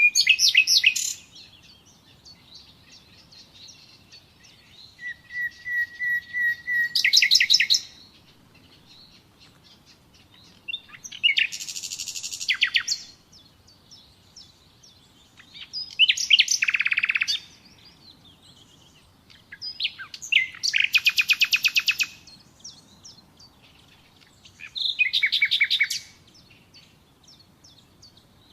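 Common nightingale singing: six loud, separate phrases of rapid trills and repeated notes, each about one to two seconds long, with pauses of a few seconds between them. The phrase about five seconds in opens with a run of single whistled notes that grow louder before breaking into a fast trill.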